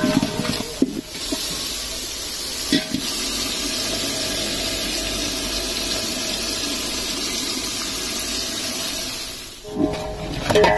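Onions, tomatoes and green chillies sizzling steadily in hot oil in an aluminium pot, after a few scrapes and knocks of a metal ladle stirring at the start.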